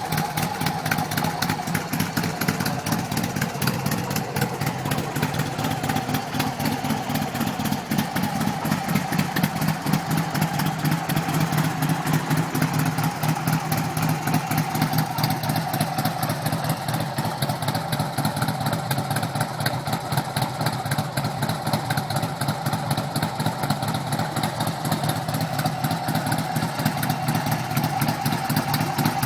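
Harley-Davidson V-twin motorcycle engine idling steadily, with an even, rapid firing pulse.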